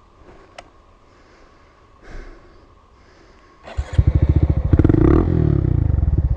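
Small single-cylinder motorcycle engine starting up about four seconds in and revving loud and close, after a quiet stretch with only a faint steady hum.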